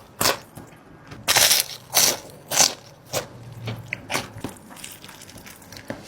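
Close-miked eating: several loud crunching bites of crisp food in the first half, then softer chewing and small clicks.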